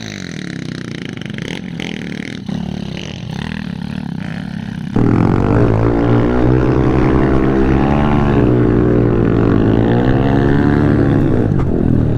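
Honda CRF110F pit bike's single-cylinder four-stroke engine running while ridden, its revs rising and falling. About five seconds in it becomes suddenly much louder.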